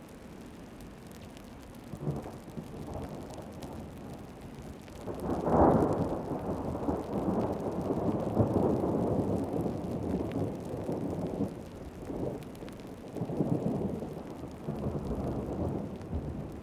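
Heavy rain falling steadily with rolling thunder: a rumble begins about two seconds in, swells loudest around five to six seconds in and rolls on, then rumbles again near the end.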